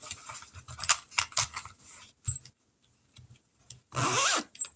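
Paper money and a cash envelope being handled: scattered small clicks and rustles, with a louder rustle about four seconds in.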